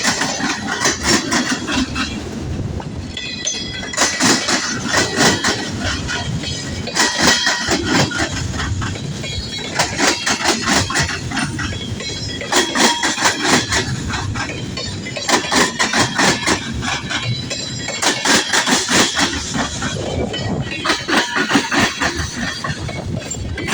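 Long CSX freight train rolling past, its car wheels clacking over rail joints in clusters of clicks that come round every two to three seconds over a steady rumble.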